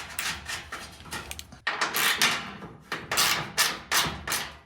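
Hand work on the truck's fuel-tank fittings: a quick, even run of small clicks, then several louder scraping rubs as metal parts and a line are worked into place.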